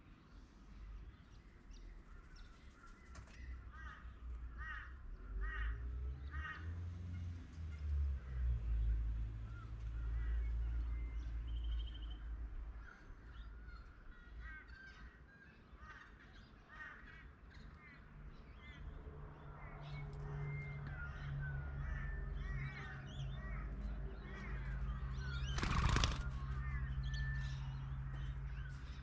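Wild birds calling outdoors: many short calls and chirps overlapping, over a low rumble and hum. A single sharp knock stands out near the end.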